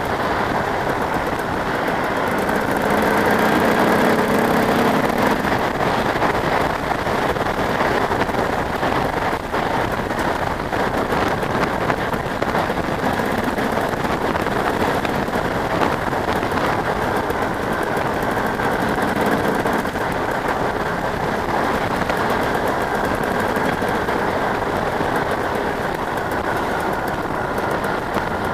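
Motocross bikes racing, their engines buzzing and revving in a continuous din, with one bike passing louder about four seconds in.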